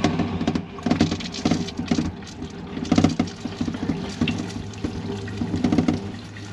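RV water pump running with a steady hum while pink antifreeze runs from the sink faucet into the drain in uneven spurts, the sign that antifreeze has reached the line and is filling the P-trap.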